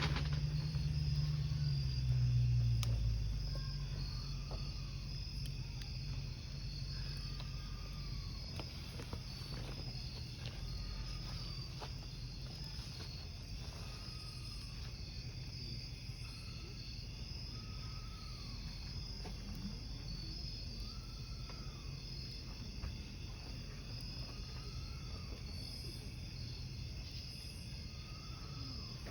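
Crickets chirping steadily in a fast pulsing trill, with the scattered pops and crackles of burning firewood. A short rising-and-falling call repeats about every two seconds, and a low rumble fades out over the first few seconds.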